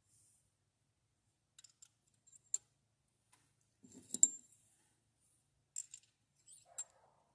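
Scattered light metallic clicks and clinks of push rods being handled and set into a Ford Fairlane engine, with the sharpest, loudest clink about four seconds in.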